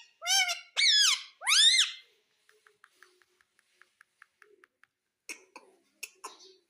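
Pet parrot giving three short, high, squeaky calls in quick succession, each rising and then falling in pitch. They are followed by a run of faint, quick, even clicks and, near the end, a few soft crackles.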